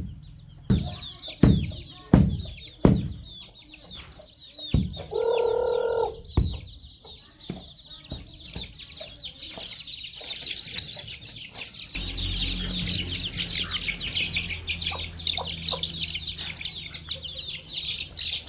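A flock of baby chicks peeping continuously, the peeps growing denser in the second half. There are a few sharp knocks in the first seconds and one harsher, lower call from a grown chicken lasting about a second around five seconds in. A low steady hum sets in about two-thirds of the way through.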